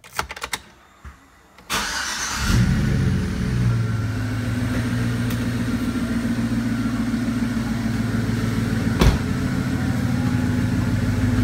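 Truck engine cranked by the starter and catching within about a second, then idling steadily, with a new heavy-duty alternator belt and no belt squeal. A few light clicks come before the start, and one sharp click about nine seconds in.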